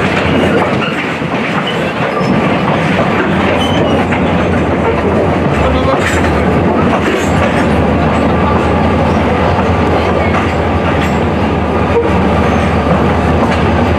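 Passenger train running along its track, heard from on board: a steady rumble of wheels on rails with a low hum and a few faint clicks.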